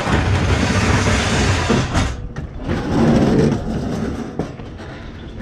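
A discarded dishwasher being hauled and jostled, its metal body scraping and rattling in two loud spells, the second about three seconds in.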